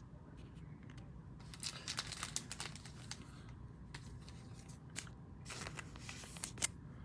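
Trading cards being handled and slid into plastic sleeves and top loaders: brief papery rustles and light plastic clicks in two short flurries.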